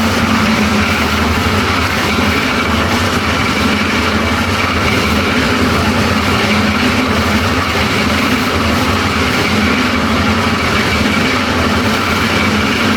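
An engine running steadily: a constant low hum under an even rushing noise.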